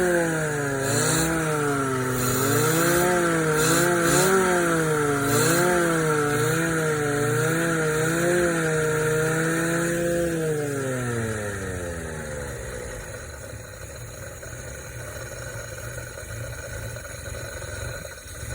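1985 Mazda RX-7's rotary engine revved in repeated blips, its pitch rising and falling, then held steady for a couple of seconds. About ten seconds in the pitch falls away over some three seconds as the engine runs down and stops, leaving a quieter low rumble of background noise.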